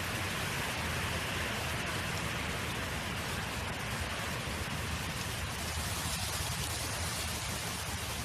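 Steady wind noise: wind blowing and buffeting the microphone, a continuous low rumble under an even hiss.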